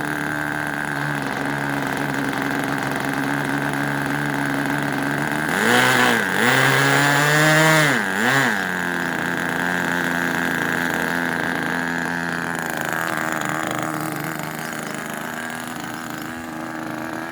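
O.S. .20 two-stroke glow engine of an RC model airplane idling steadily, then throttled up twice about six and eight seconds in, its pitch climbing and dropping back, before settling to a steady idle again.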